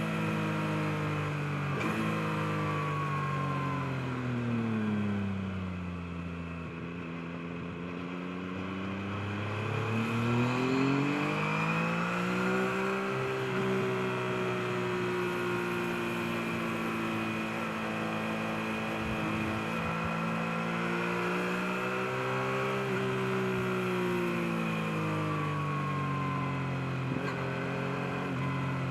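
Yamaha MT-09's three-cylinder engine on the road, easing off and slowing over the first several seconds. It pulls hard back up in revs about ten seconds in, holds a steady pitch, then comes off the throttle again about two-thirds of the way through.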